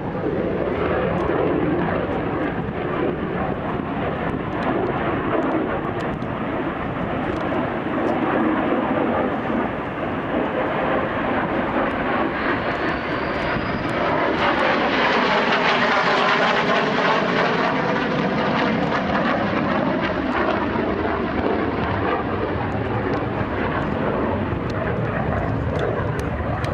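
Klimov VK-1 turbojet of a MiG-17 fighter flying a display, a steady jet noise that grows loudest in a pass about two-thirds of the way through, with a sweeping whoosh as the jet goes by.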